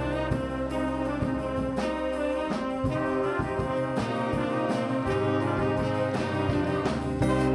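A student jazz band playing, brass section to the fore with trumpets and trombones holding chords over a bass line; the low bass thins out about two and a half seconds in.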